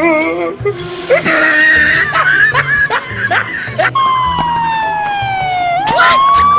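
Police-style siren wail used as a prank: a single tone starts about two-thirds of the way in, falls slowly, then sweeps back up and holds high. Before it there is laughter and chatter.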